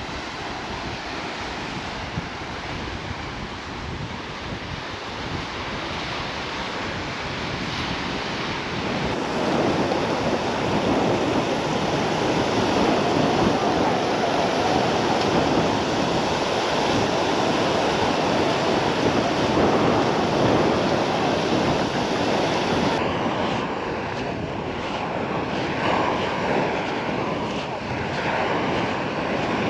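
Sea waves washing onto the beach, with wind buffeting the microphone; the wash grows louder about nine seconds in.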